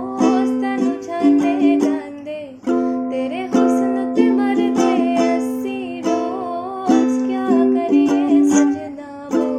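Ukulele strummed and plucked in simple chords by a beginner, with a voice humming along.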